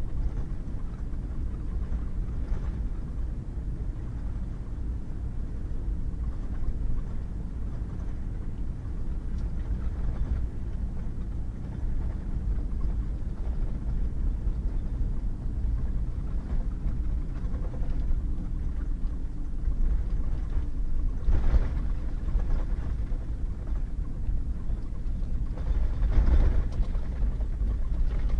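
Pickup truck driving on a wet gravel road: a steady low rumble of engine and tyres, with two brief louder jolts late on.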